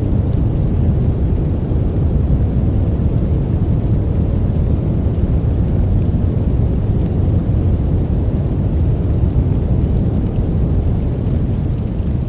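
Steady sleep-aid noise track, deep and even, with most of its weight low down and no rhythm or separate events.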